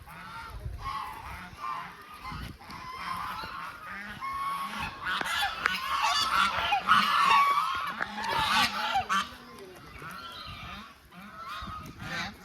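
A flock of ducks calling, many short calls overlapping, busiest and loudest in the middle.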